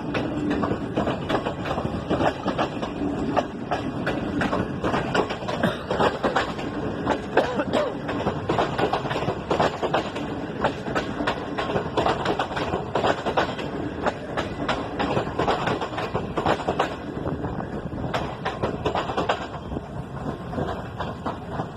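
Passenger train rolling past, its wheels clattering and knocking steadily over the rails, a little quieter near the end.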